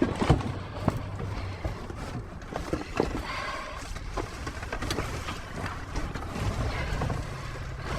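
Scattered light knocks, clicks and rustling of scrap and debris being handled inside a dumpster, over a steady low hum.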